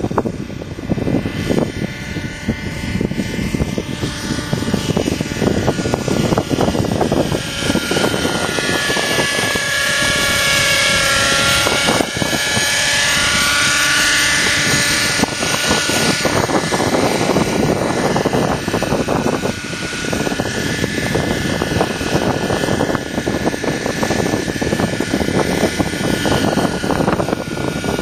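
Thunder Tiger Raptor 50 nitro RC helicopter in flight: its glow engine and rotors whine steadily, the pitch dipping and rising again in the middle. Gusty wind noise on the microphone underneath.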